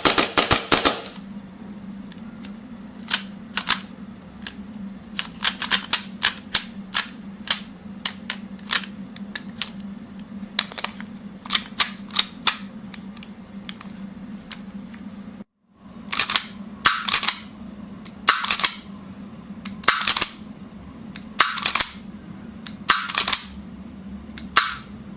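Tokyo Marui Hi-Capa 5.1 gas blowback airsoft pistol firing, its lightweight slide cycling with each shot. A fast string of shots stops about a second in, followed by single shots and short strings of shots. A low steady hum runs underneath.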